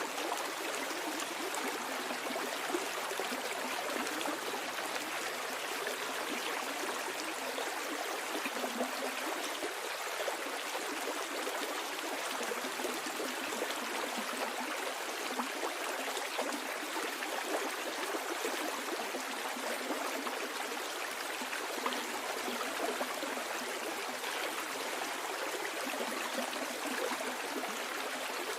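A stream flowing steadily downstream, its water rushing and trickling in a constant, unbroken babble.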